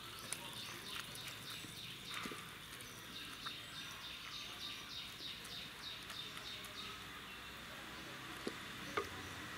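A bird chirps over and over, short high downward-sliding notes at about three a second, over a steady high insect-like tone. A few soft knocks come from a wooden masher working cooked shallots in a clay pot.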